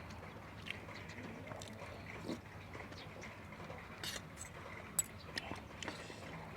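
Close-up eating sounds: chewing with scattered small clicks and crunches over a steady low background hiss.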